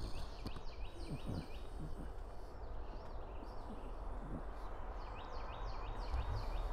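Quiet outdoor background with a bird repeating a quick run of falling chirps twice, about a second in and again near the end. A man draws and puffs softly on a tobacco pipe.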